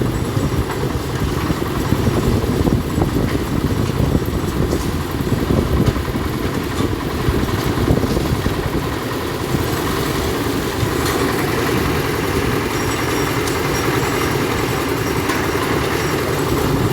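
Concrete mixer machine's engine running steadily, a loud, even machine noise.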